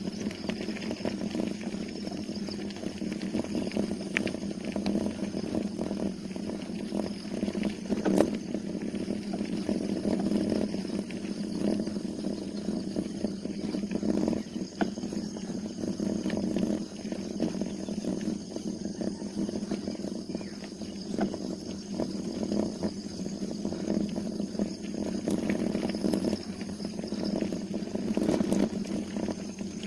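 Steady rumble of riding a bicycle on a road, with wind and road noise on the camera's microphone and scattered small clicks and knocks.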